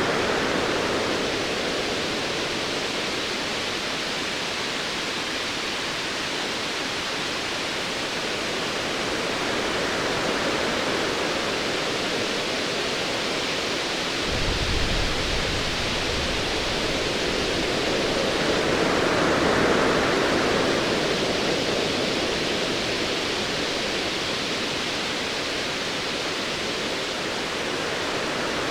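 Ocean waves washing in slow swells, with a low rumble of distant thunder that starts about halfway through.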